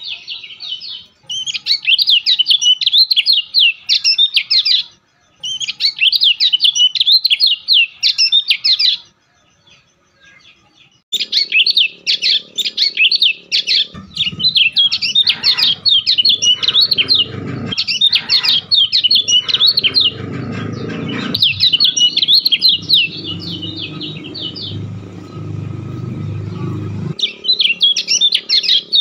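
A bird chirping in rapid, high-pitched phrases of a few seconds each, with short pauses between them. A low rumbling noise runs under the chirping through the second half.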